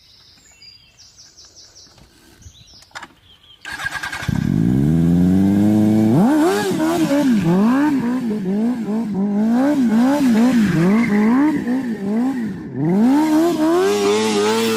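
Motorcycle engine starting about four seconds in, then revved in quick repeated blips, about one and a half a second, with a longer rise in revs near the end. A few faint clicks come before it starts.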